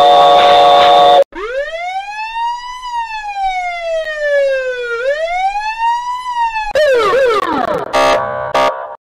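Police car siren in a slow wail: the tone rises, falls and rises again, then drops away quickly. Before it, a loud steady chord of tones cuts off about a second in. Near the end comes a brief, distorted burst of stacked tones.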